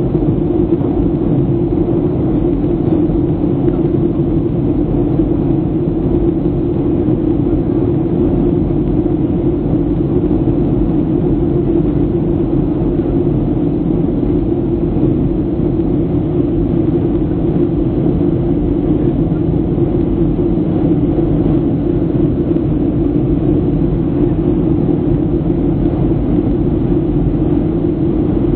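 Steady roar of a Boeing 737-800's engines and rushing air heard inside the passenger cabin, a low, even rumble that holds unchanged throughout.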